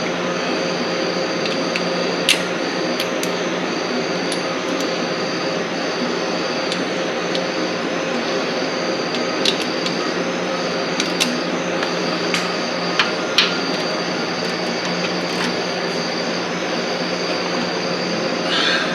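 Steady mechanical hum and hiss with a thin high tone that keeps cutting in and out, and scattered sharp clicks and knocks, about ten in all.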